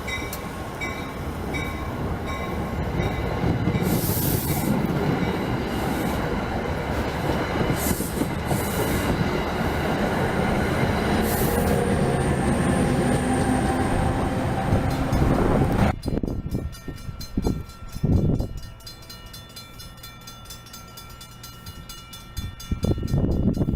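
NJ Transit commuter train passing close by, wheels running loudly on the rails, with several brief high-pitched bursts of sound. About two-thirds of the way through, the sound drops abruptly to a much quieter hum with steady tones, and it grows louder again near the end.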